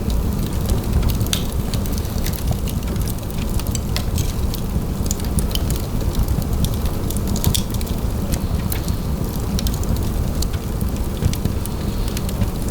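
Fire burning in a fireplace: a steady low rumble of the flames with many quick, irregular crackles and pops throughout.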